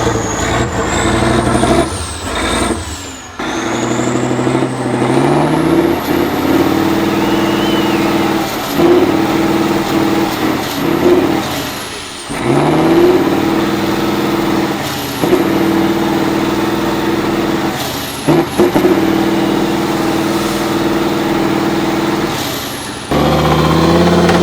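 Heavy off-road truck's diesel engine working hard under load, its note rising several times as it revs up, with a few abrupt breaks and a thin high whine gliding up and down over it.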